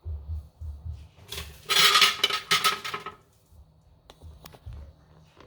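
Dishes and utensils clattering: soft bumps, then about two seconds of dense clinking and scraping with a slight ring, and a few light taps near the end.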